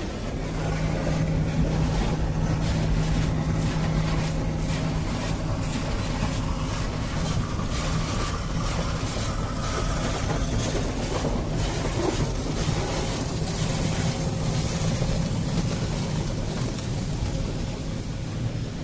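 Automatic car wash running around a car, heard from inside the car: a steady machine hum under a constant noisy wash of spraying and scrubbing on the bodywork.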